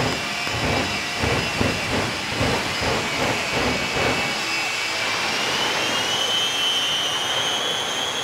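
Jet engines of the Shockwave jet truck running, a high turbine whine over a rushing hiss, with a rhythmic pulsing about two to three times a second; the whine rises in pitch about five to six seconds in as the engines spool up.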